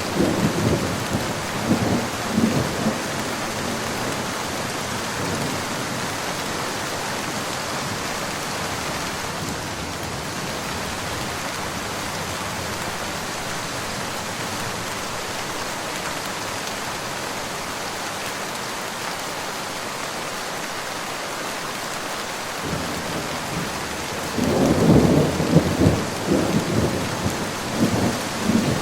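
Steady rain falling, with rolls of thunder rumbling over it at the start and again from about 24 seconds in until near the end.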